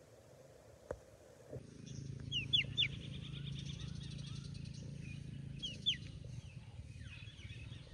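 Birds calling outdoors: two groups of short, falling chirps, the loudest sounds, about two and a half and six seconds in, over a steady low hum and a fast, high buzzing trill that start a second and a half in.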